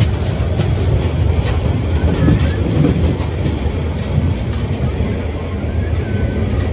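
Steam train running along the track: a steady low rumble with irregular clicks and clatter from the wheels on the rails.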